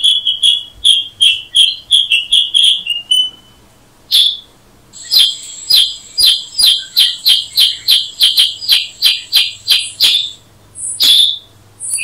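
Bird calls: two fast runs of clear, evenly repeated notes, about three a second, with a few single notes between them. A thin steady high tone runs under the second run.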